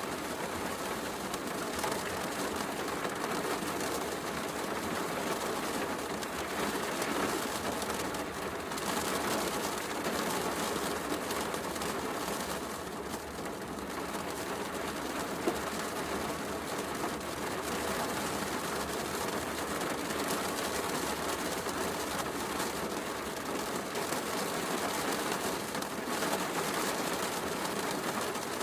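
Steady heavy rain with a wood fire crackling softly, and one sharper pop about halfway through.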